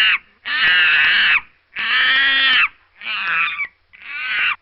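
A recorded animal calling over and over: three long calls of about a second each, then shorter, broken calls near the end.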